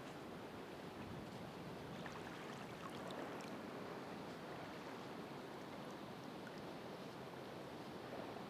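Ocean waves washing in as a steady rushing surf, swelling slightly about three seconds in, with faint high clicks scattered through it.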